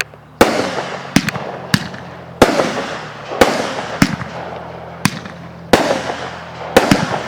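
Fireworks going off in quick succession: about ten sharp bangs, roughly one a second, each followed by a fading crackling hiss.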